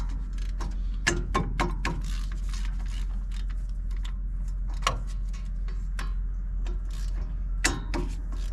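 Irregular metallic clicks and clinks of sockets and hand tools being handled, over a steady low hum.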